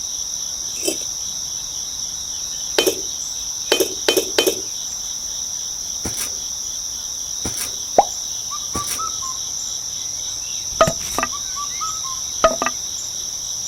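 A steady high-pitched chorus of crickets, with a dozen or so sharp light taps and clicks scattered through it, some in quick runs of two or three.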